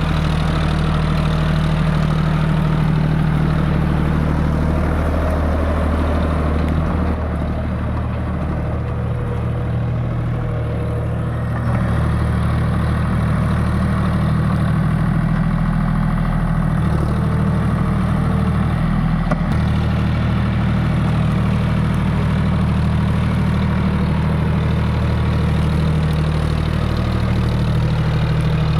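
John Deere 5050D tractor's three-cylinder diesel engine running steadily. It eases off a little for a few seconds and picks up again about twelve seconds in.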